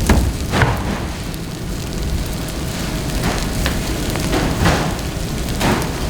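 Wood fire burning, with scattered crackles and pops over a steady low rush.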